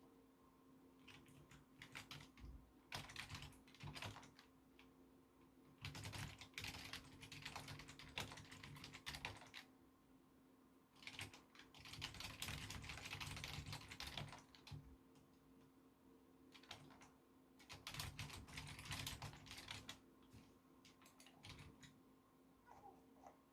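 Typing on a computer keyboard in several bursts of rapid key clicks, each a second or a few seconds long, with short pauses between.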